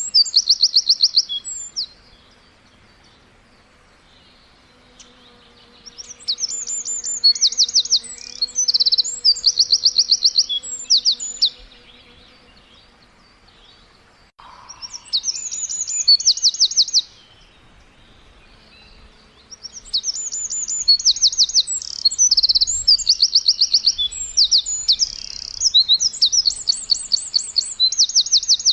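A songbird singing in bouts of high, rapid trilled phrases. Each run of quick, evenly repeated notes lasts a few seconds, with quieter pauses of two to three seconds between bouts.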